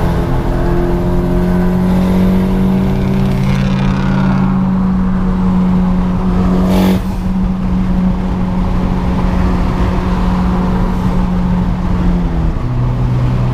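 A car engine running at steady revs, with higher tones gliding down over the first few seconds and a single sharp crack about seven seconds in. The engine note drops to a lower pitch near the end.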